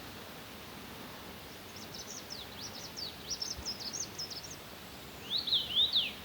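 A songbird singing: a quick twittering run of short, high, falling notes, then a few louder down-slurred whistles near the end, over a steady background hiss.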